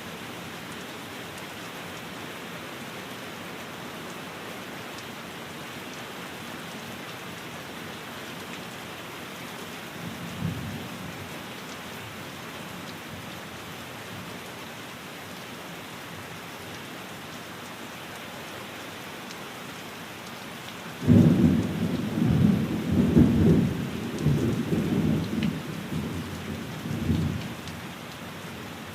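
Steady rain falls throughout. A short, low rumble of thunder comes about a third of the way in. A loud, rolling thunder rumble starts suddenly about two-thirds through and surges for several seconds before dying away.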